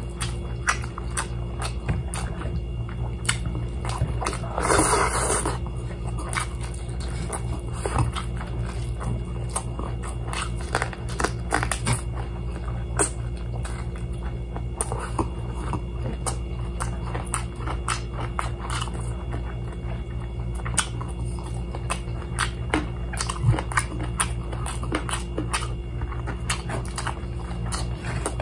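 A person chewing and biting crispy fried chicken close to the microphone, many short smacking and crunching clicks, with a brief louder noisy burst about five seconds in, over a steady low hum.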